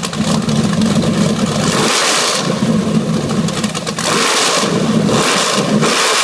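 383 stroker V8 exhausting through shorty speedway mufflers, idling with a lumpy note and blipped several times by the throttle in short revs.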